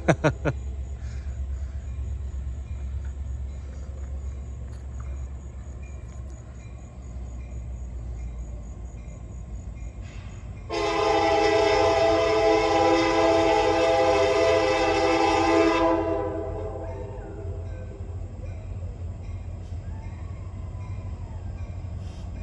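Diesel locomotive of a slow-moving loaded coal train rumbling steadily, with a few sharp knocks right at the start. About halfway through it sounds one long chord blast of its air horn, about five seconds, which then stops.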